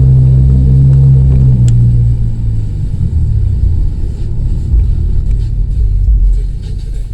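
Honda CR-V exhaust with the resonator and muffler removed, running loud with a steady deep drone for about two and a half seconds, then dropping back to a lower, rougher rumble.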